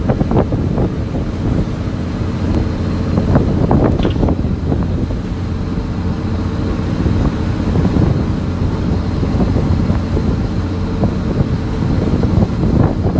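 Fishing boat's engine running steadily, with wind buffeting the microphone and a few irregular knocks and clatters.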